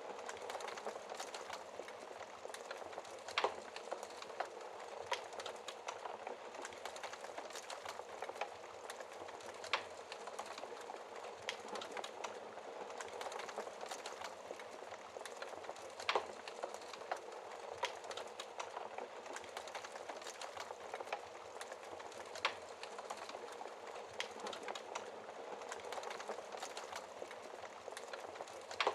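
Fireplace fire crackling steadily, with a constant hiss of the flames, many small snaps and a few louder pops.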